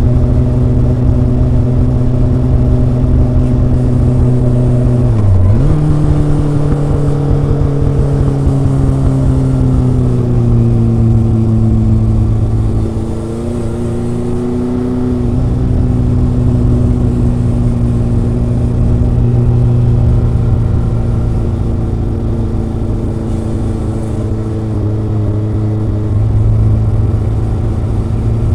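Kawasaki ZRX inline-four engine and exhaust while riding, a smooth, gentle four-cylinder note. About five seconds in the pitch dips sharply and comes back higher, then it eases down and holds steady for most of the rest, falling slightly near the end.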